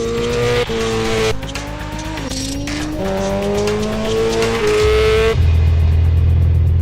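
Sport motorcycle engine revving hard through the gears, its pitch climbing in each gear and dropping abruptly at the upshifts. A loud steady low drone takes over a little after five seconds.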